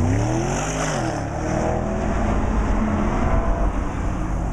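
BMW E92 M3's 4.0-litre V8 engine revving under acceleration, its pitch rising, dropping away about a second in, then climbing again.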